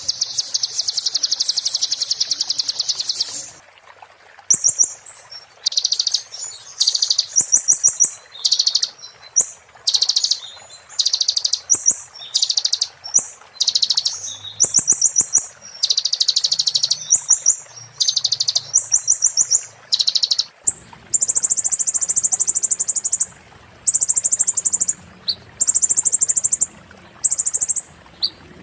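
Konin bird song as used for masteran: rapid, high, glassy trills in short bursts of half a second to a second, each a fast run of sharp notes, repeated with brief gaps. This is the fast 'muntah beling' style. About two-thirds through, the trills turn higher and more regular over a louder background hiss.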